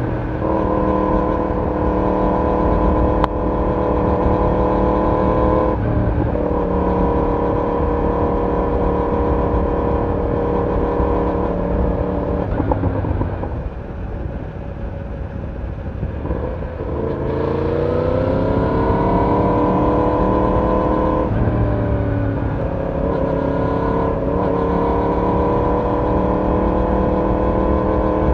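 Yamaha YZF-R1 inline-four engine and exhaust heard from on board while riding: a steady engine note that steps down in pitch about six seconds in and again near 21 seconds, as with gear changes. It goes quieter for a few seconds around the middle, then rises in pitch as the bike accelerates about 17 seconds in.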